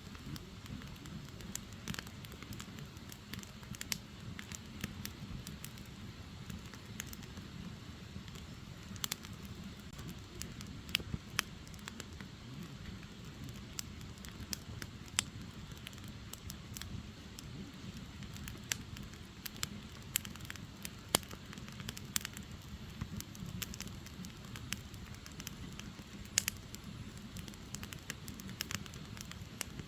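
Wood fire burning: logs crackling with frequent irregular pops and snaps over a steady low rumble of the flames.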